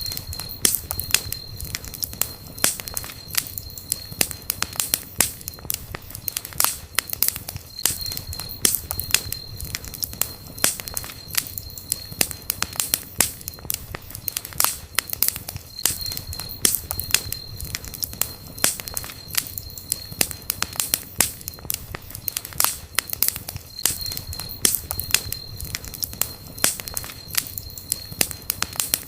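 Campfire crackling: burning wood giving off frequent sharp pops and snaps over a low rumble of flames.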